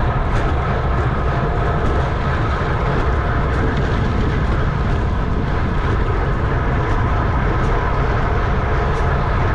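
Wind rushing over the microphone of a camera riding on a racing bicycle at speed: a loud, steady rumble with a faint hum from the tyres and drivetrain.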